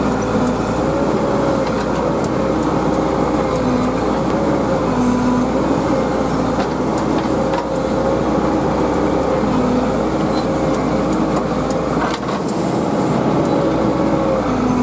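Heavy diesel machinery engine running steadily, its tone wavering slightly, with a few light clicks and knocks.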